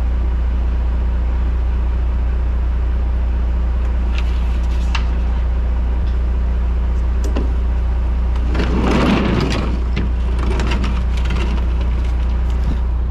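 An engine runs steadily with a low hum throughout. Scattered sharp clicks and knocks sound over it, and a louder rushing noise comes about nine seconds in.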